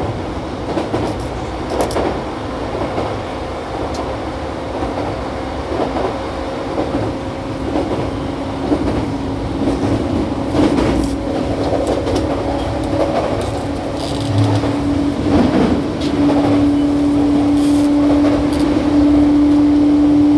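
Interior running sound of a JR East E235 series 1000 electric train at speed: rumbling wheels on rail with scattered clicks, and a steady motor hum that climbs slightly in pitch and grows louder over the last few seconds.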